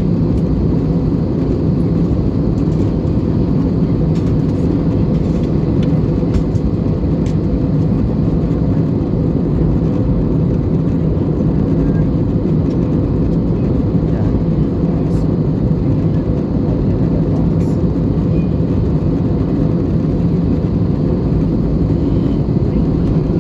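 Airbus A320neo cabin noise at cruise: the steady low rush of airflow and engines heard from inside the cabin, with a faint even hum.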